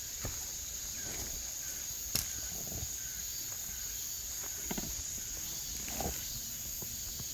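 Steady high-pitched shrilling of insects in summer, with a few short low buzzes and a sharp click about two seconds in.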